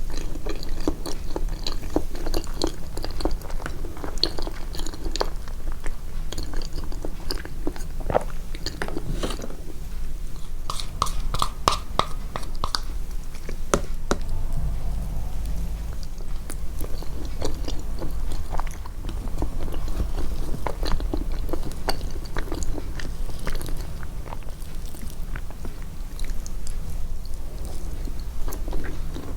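Close-miked, amplified chewing and biting of food, with dense irregular wet clicks and a little crunch.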